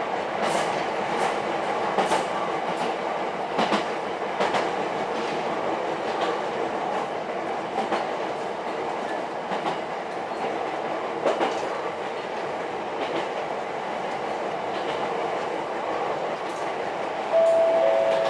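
Ichibata Electric Railway 7000 series train running, heard from inside the car: a steady rumble with wheels clicking over rail joints now and then. Near the end a steady two-note tone starts and is louder than the running.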